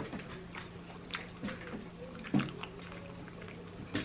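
Close, wet chewing and mouth smacks while eating, a few irregular clicks with the loudest about two and a half seconds in, over a steady low hum.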